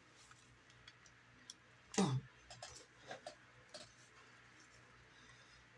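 Small clicks and taps from hands handling an electric match and its plastic shroud while setting it into a firework cake, with one louder, brief sound about two seconds in that falls in pitch.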